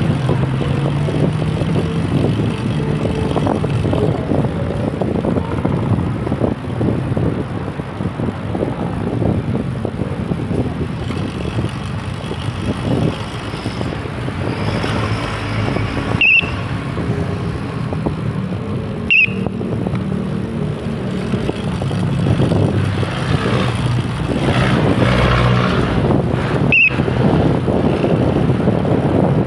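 Wind buffeting the microphone of a camera carried on a moving bicycle, mixed with the rumble of road traffic. Three brief, high clicks come about midway and near the end.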